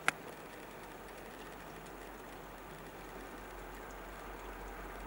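Faint low rumble of an approaching train, slowly building, with one sharp click just after the start.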